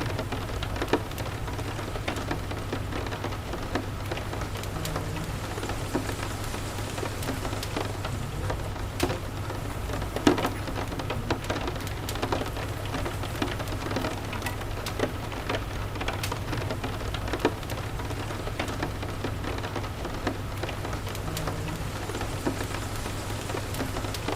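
Steady rain with a constant low rumble underneath, mixed with scattered sharp crackles and pops from a wood fire in a fireplace.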